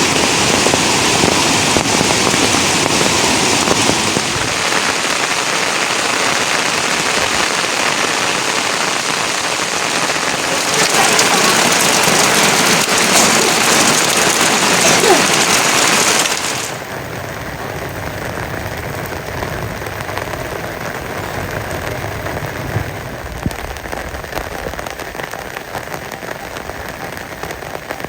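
Heavy rain, a steady hiss of drops falling on surfaces; about sixteen seconds in it drops suddenly to a quieter, lighter rain.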